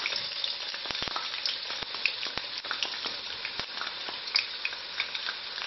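Blocks of firm tofu frying in hot oil in a wok, a steady sizzle with frequent small pops and crackles.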